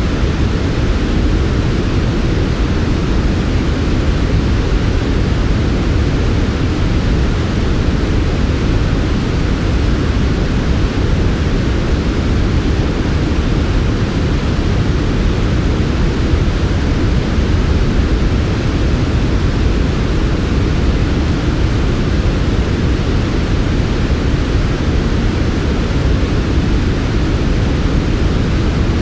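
Steady, smooth generated white noise, softened so that most of its weight sits in a low rumbling hiss with the highs rolled off. It runs on without change.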